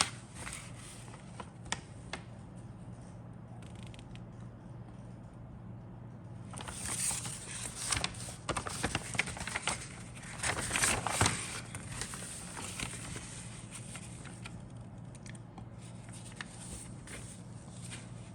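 Model kit packaging being handled: crinkling and rustling with small clicks, heaviest for about five seconds in the middle, over a steady low hum.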